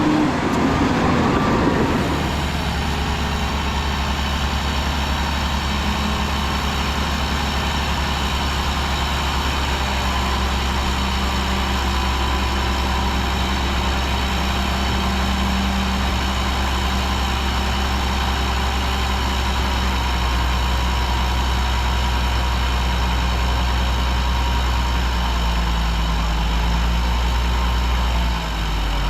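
Heavy diesel engine of earthmoving equipment running steadily with a low drone, louder and busier for about the first two seconds before settling, with a brief dip near the end.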